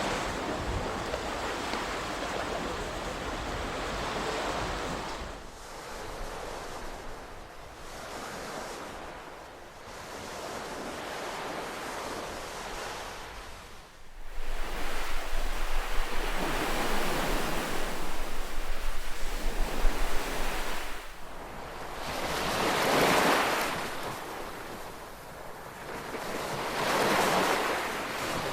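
Ocean waves breaking and washing up the shore, surging and falling away every few seconds. About halfway through a low rumble of wind on the microphone comes in, and the biggest surges come near the end.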